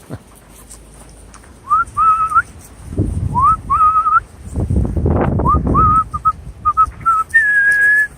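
A man whistling to call his dogs: several rising whistles that level off into short held notes, then a quick run of short notes and a longer, higher held note near the end. Wind gusts buffet the microphone twice in the middle with a low rumble.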